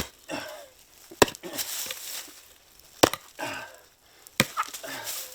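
Four sharp wooden knocks, one to two seconds apart: blows struck against a tree stump.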